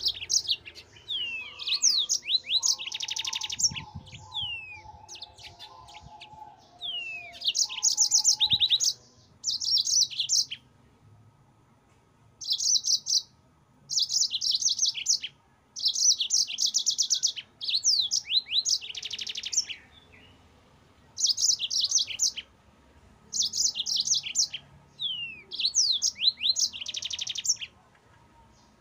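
Yellow-fronted canary (Mozambique canary) singing a chattering song: repeated phrases of fast, high trills mixed with quick downward-slurred whistles, with short pauses between phrases.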